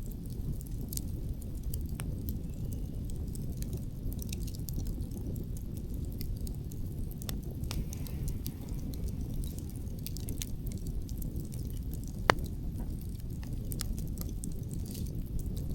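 Wood campfire crackling with scattered small pops and one sharp, loud pop about twelve seconds in, over a steady low rumble of wind.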